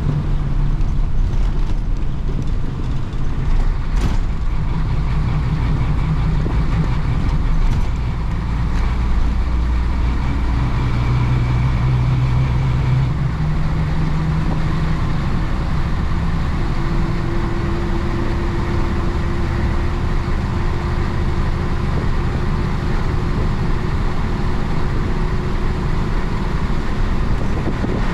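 1966 Isuzu BXD30 bonnet bus's DA640 six-cylinder diesel engine running as the bus drives, heard from on board. The engine note shifts in pitch several times as the revs change, with a sharp click about four seconds in.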